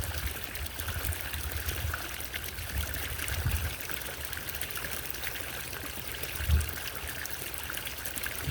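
Small solar fountain's water trickling and splashing steadily, with a few low rumbles, the strongest about six and a half seconds in.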